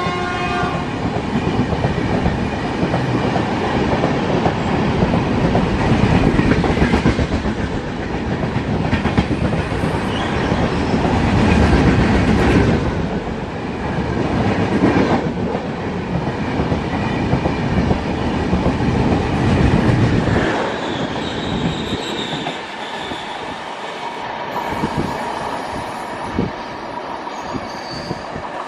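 Indian Railways train passing close by at speed: the clickety-clack of wheels over rail joints and a loud rushing rumble from the coaches. A horn blast cuts off just as it begins. About twenty seconds in, the rumble thins and fades as the last coaches go by, leaving a few thin high tones.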